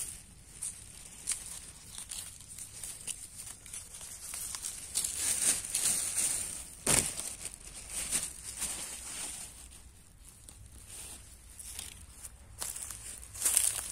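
Leaves and stems rustling and snapping as wild greens are handled and picked by hand, an irregular run of crackles with a sharper snap about halfway through.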